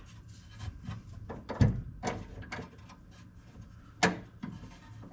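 Scattered sharp knocks and clicks as Vanagon shift linkage parts are handled and fitted, the loudest about a second and a half in and again about four seconds in.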